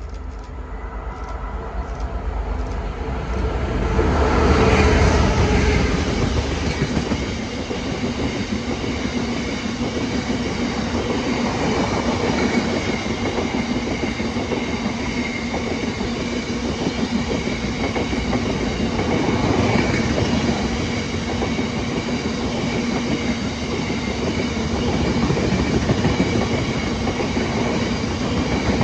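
Class 66 diesel freight locomotive approaching and passing close by, its two-stroke engine loudest about four to six seconds in. It is followed by a long rake of Drax biomass hopper wagons rolling past, with a steady rumble and clatter of wheels on the rails.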